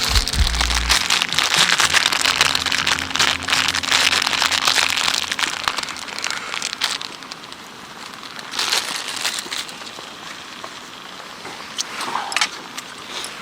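Wood fire crackling and popping, densest in the first half and thinning out later, with short louder flurries of crackles later on.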